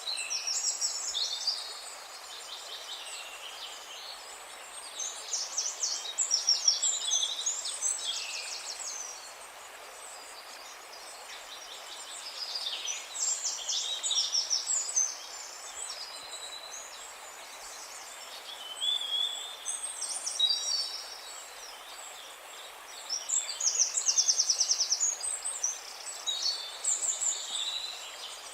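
Songbirds singing in bouts of rapid trills and warbling phrases, one bout every several seconds, over a steady background hiss.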